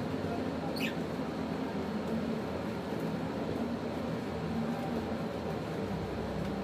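A steady low mechanical hum, with one short, high chirp falling in pitch from an African lovebird about a second in.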